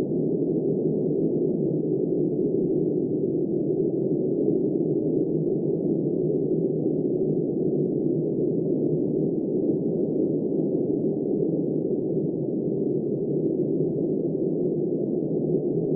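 Wind blowing as a steady, even, muffled rush, low in pitch with no high hiss and no gusts or swells.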